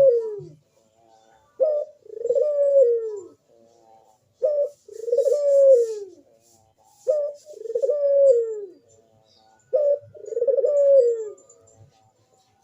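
A crossbred puter dove, the Indonesian cagebird collared dove, cooing over and over: each call is a short note followed by a longer rising-then-falling coo, repeated about every two and a half seconds. It is a bird in full breeding condition, cooing steadily.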